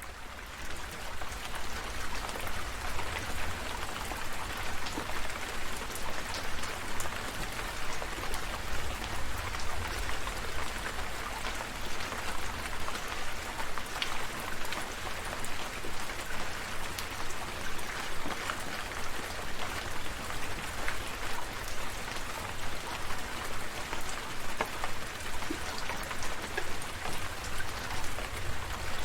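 Steady rain falling: an even hiss of rainfall with many individual drops striking close by, over a faint low rumble.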